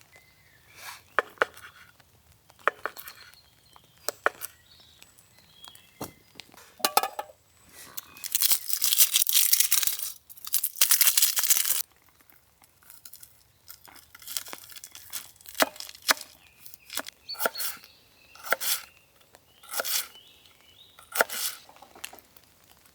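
Plastic food packaging being crinkled and torn open in short irregular bouts, with a longer, louder stretch of rustling and tearing midway.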